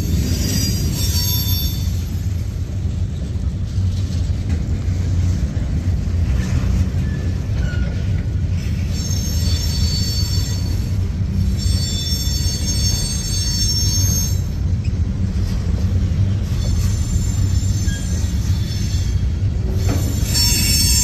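Boxcars of a manifest freight train rolling past: a steady low rumble of wheels on rail, with high-pitched wheel squeal that rises and fades several times.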